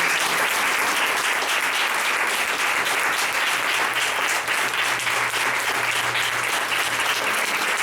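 Congregation applauding: sustained, dense clapping at an even level.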